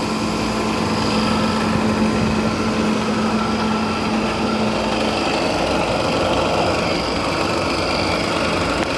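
LG 10,000 BTU window air conditioner running, its compressor and blower fan motor making a steady mechanical hum with a few steady whining tones. The low hum fades out about five seconds in. The fan motor's bearings had seized and been freed with oil, and the motor still doesn't sound very happy.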